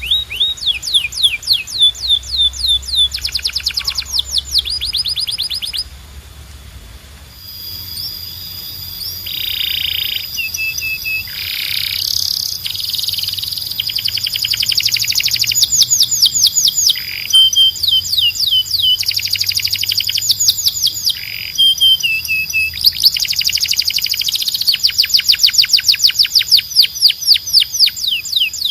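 Canary singing: fast trills of rapidly repeated high notes in phrases that change in speed and pitch, with a brief lull about six seconds in.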